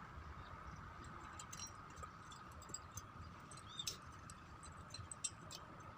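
Scattered light clicks and ticks of small parts and tools being handled during a brush cutter repair, starting about a second and a half in, over a faint steady hum.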